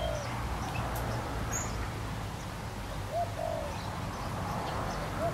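A bird calling: short, low two-note calls, repeated about every three seconds, with a few faint higher chirps between them.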